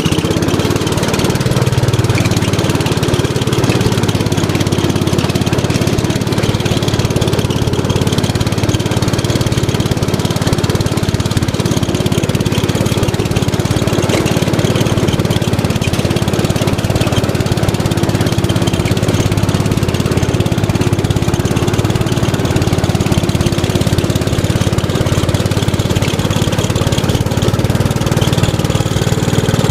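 Craftsman LT1000 mud tractor's engine running steadily shortly after a cold start. It caught on the first try without the choke.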